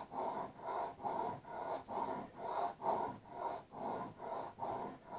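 Axe blade rubbed back and forth on the fine side of an oiled sharpening stone: a steady rhythm of short, rasping strokes, about three a second.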